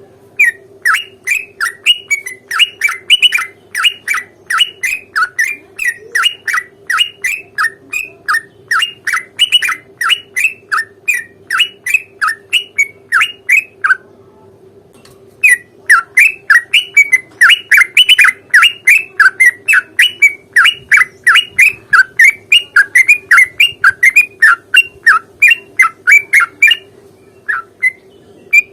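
Yellow-vented bulbul (trucukan) calling in long rapid runs of sharp notes, each dropping in pitch, about three or four a second. The run breaks off for about a second and a half halfway through, then resumes. A steady low hum runs underneath.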